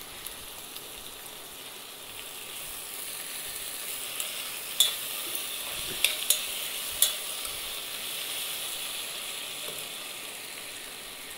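Onion, tomato and spice masala sizzling in hot oil in a metal pressure cooker while it is stirred with a spoon. About halfway through come four sharp metal clicks, the spoon knocking against the pot.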